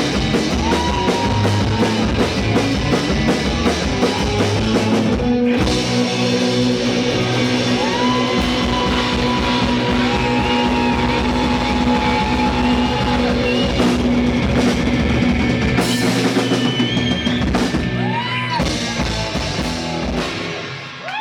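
Live rock band playing with drum kit and electric guitars, a lead line holding long notes that bend up into pitch. The music drops away near the end.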